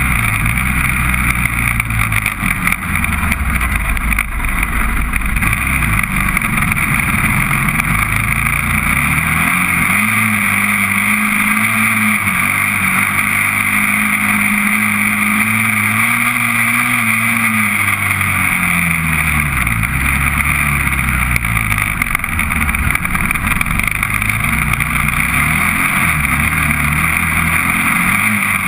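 Honda TRX400EX quad's single-cylinder four-stroke engine running under way. The revs climb about a third of the way in, hold high for several seconds, then fall back and wander at lower revs.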